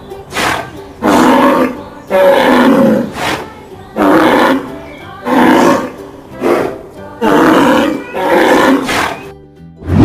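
Ox bellowing: a run of loud, rough calls about once a second, some long and some short, stopping just before the end.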